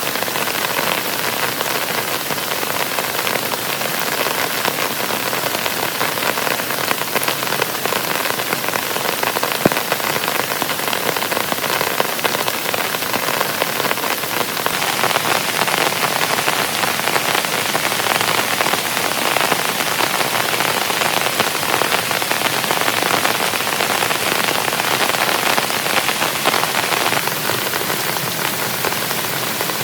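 Heavy rain falling steadily. It turns heavier and brighter from about halfway through, then drops back suddenly near the end.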